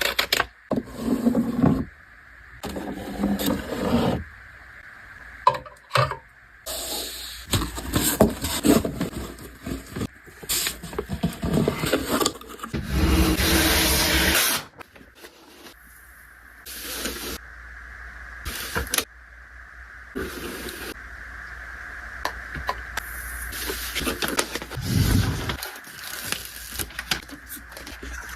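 Irregular handling noise: scattered clicks, knocks and rustles, with one longer, louder rustle about halfway through, over a faint steady hum.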